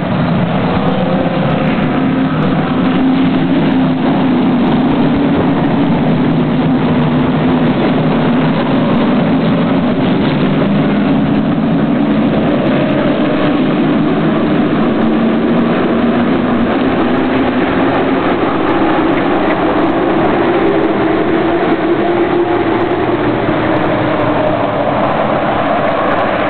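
Many race car engines running hard together at a race start, a dense continuous blend whose pitches drift up and down as the cars pass.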